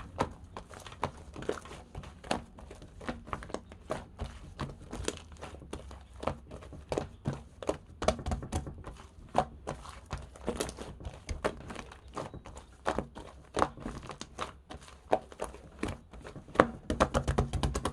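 Toy slime being squeezed and pressed by hand, giving a dense, irregular run of sharp clicks and pops, several a second.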